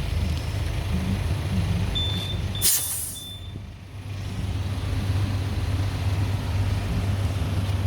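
Petrol-station tyre inflator filling a car tyre: a steady low hum, and a short loud hiss of air about two and a half seconds in. Three short high beeps from the inflator sound around the hiss.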